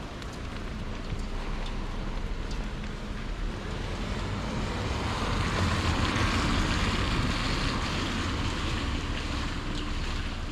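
Vehicle passing on a wet street: the hiss of tyres on wet road builds, is loudest about six seconds in, then fades.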